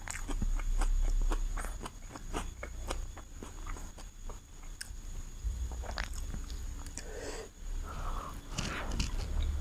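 Close-miked chewing of chicken biryani: a run of wet mouth clicks and smacks, with a few longer, rougher mouth sounds near the end.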